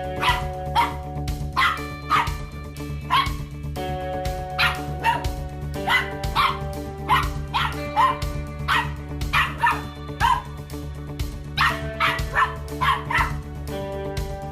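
A dog barking over and over in short, sharp calls, one or two a second, over background music.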